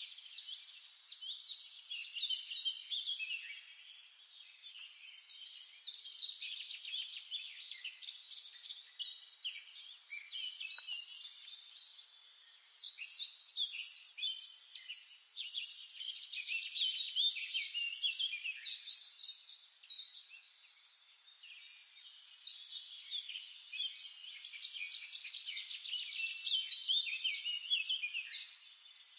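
Songbirds singing: a dense run of quick, high chirps and trills in long phrases, broken by a few short lulls.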